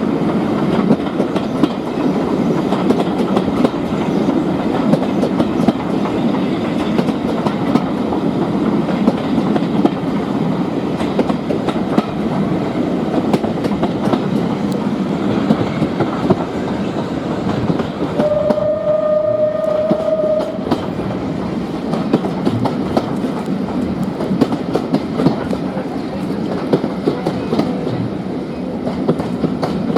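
Steam-era train running on jointed track: a steady rumble with a continuous clatter of rail-joint clicks. Just past halfway the locomotive's whistle sounds once, one steady note held for about two seconds.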